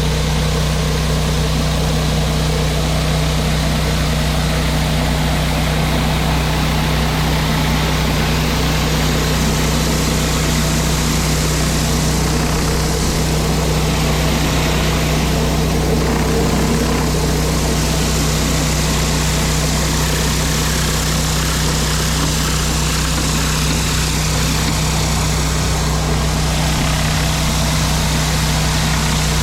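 Pressure washer engine running steadily at constant speed, with a steady hiss of high-pressure water spraying onto concrete.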